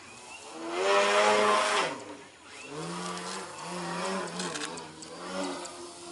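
Engine of a 67-inch Sbach 300 radio-controlled aerobatic plane in flight: a loud pass about a second in, its pitch falling as it goes by, then a steadier drone that wavers slightly as the plane manoeuvres.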